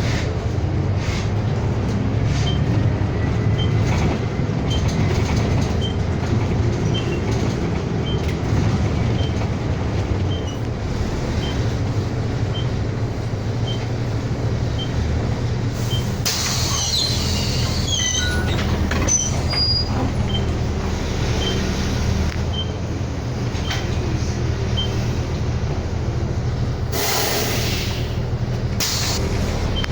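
City bus engine running, heard from inside the cabin as the bus drives. A regular high ticking, about three ticks every two seconds, runs through much of it, with some brief high squeals about halfway and a short hiss near the end.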